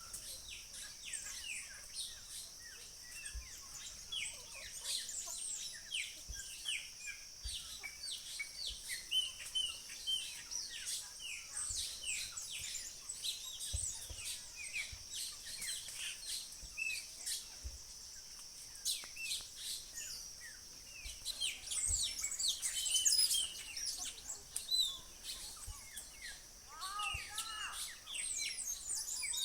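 Many small birds chirping and calling, a rapid scatter of short falling chirps, over a steady high buzz. Near the end a lower, fuller call joins in.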